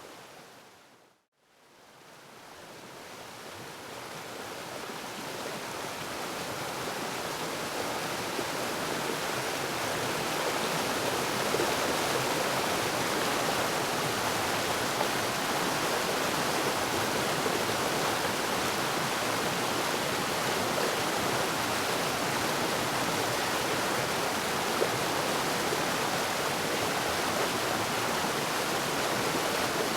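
Waterfall, a steady rushing of falling water. It fades out to silence about a second in, then swells back gradually over about ten seconds and runs on steadily.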